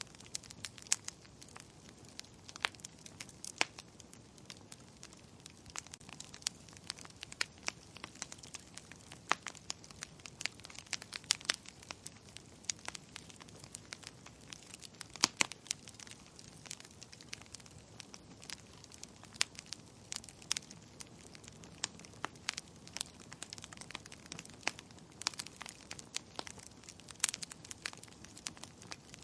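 Wood fire in a fireplace crackling, with irregular sharp pops and snaps over a steady soft hiss.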